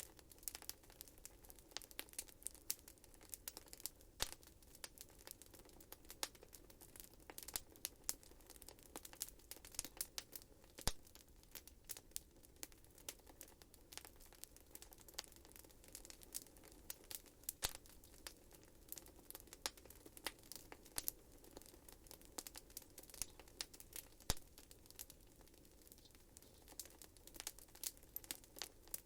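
Wood fire crackling in a fireplace: irregular sharp pops and snaps, many per second, over a soft steady hiss of the flames.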